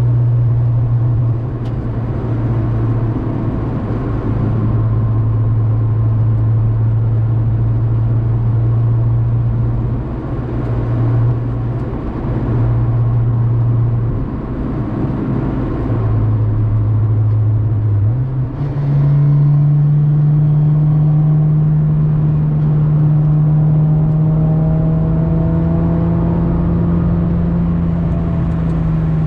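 Acura Integra GS-R's B18C1 1.8-litre VTEC inline-four running under load through a Yonaka aftermarket exhaust while driving. The engine note holds steady with a few brief dips, then jumps to a higher note about two-thirds of the way through and climbs slowly as the car accelerates.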